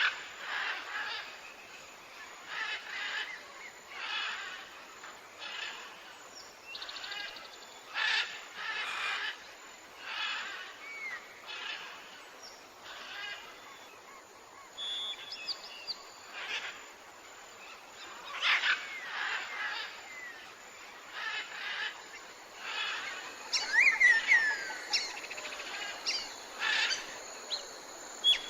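Wild birds calling outdoors: short calls repeated about once a second, with a few whistled chirps that slide up and down in pitch.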